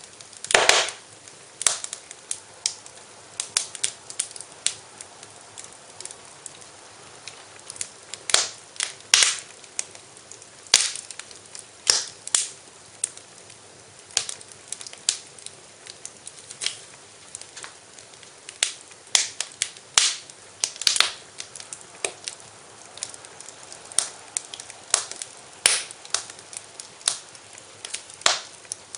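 Wood fire in a fireplace crackling, with irregular sharp pops over a faint steady hiss.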